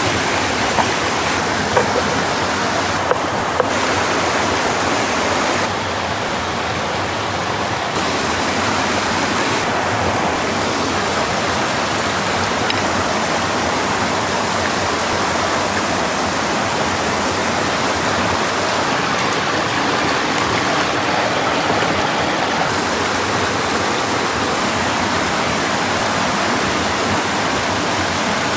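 A steady rush of flowing stream water, with a few light knocks in the first few seconds.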